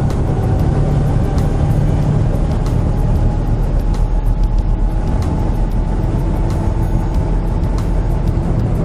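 Suzuki GSX250R's parallel-twin engine running at a steady cruise, with wind noise, inside a road tunnel. The engine note drops a little about three seconds in.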